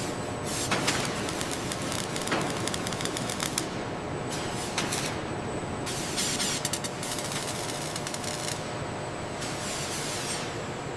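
Assembly-line noise: repeated bursts of hissing over a steady background, with a few short clicks.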